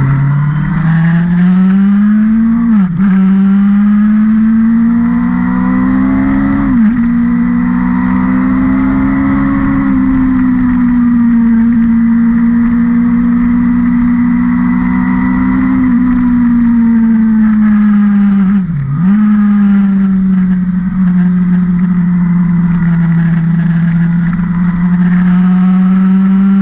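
A vehicle's engine running hard on a race circuit, its note climbing with the revs and dropping sharply at gear changes, once about three seconds in and again around seven seconds. Further on it holds a steady high note, with a brief dip in revs near nineteen seconds.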